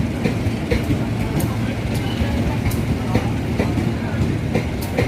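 A train running past, with a steady low rumble and irregular sharp clicks of wheels over the rail joints.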